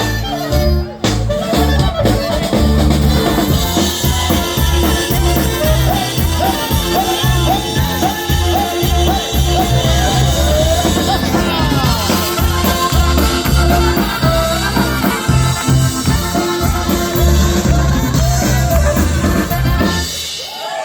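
Live polka band playing an upbeat tune on brass, reeds, accordion and drums, with a steady bass-and-drum beat. The music stops near the end.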